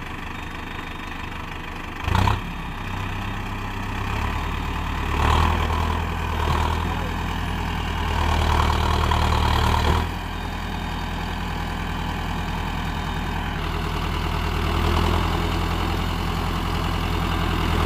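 Mahindra tractor's diesel engine running, with a brief loud clunk about two seconds in. The engine then works harder and louder from about five seconds to ten, drops back suddenly, and runs on steadily.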